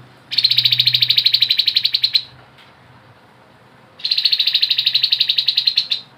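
Grey-headed babbler giving two long rapid trills, each about two seconds long, with the second starting about four seconds in. Each trill is a fast run of about fifteen even notes a second.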